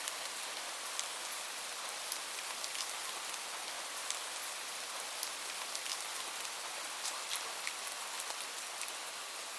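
Steady rain: an even hiss of rainfall with close individual drops ticking irregularly on a surface.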